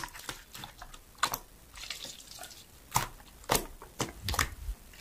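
Slime being squeezed and pressed by hand, giving irregular wet clicks and pops.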